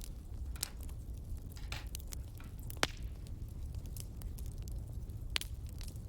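Wood fire crackling in a fireplace: irregular sharp pops and snaps, the loudest about three seconds in and again near the end, over a steady low rumble of the flames.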